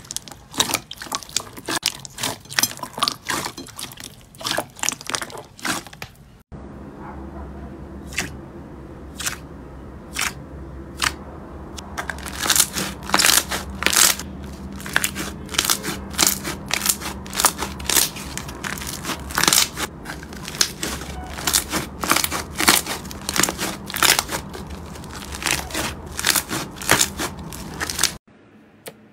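Slime being squeezed and poked by hand, making quick crunchy crackles and pops. About six seconds in the sound changes abruptly to louder, more spaced-out pops over a steady low hum.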